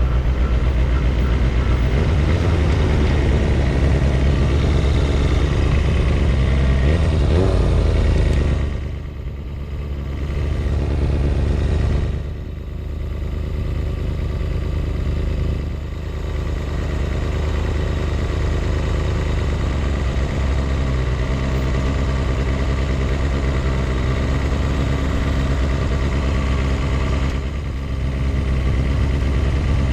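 A vehicle engine running steadily under way; its sound drops off briefly four times before picking up again.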